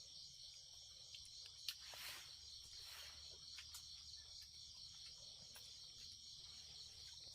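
Crickets chirring in a steady, high-pitched chorus, with a few faint clicks.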